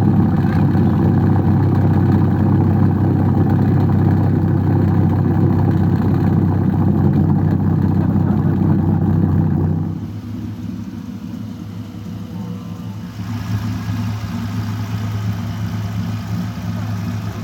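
Dodge Viper's V10 engine running loud and steady through its exhaust. About ten seconds in the sound drops suddenly to a quieter, lower engine sound, which grows somewhat louder a few seconds later.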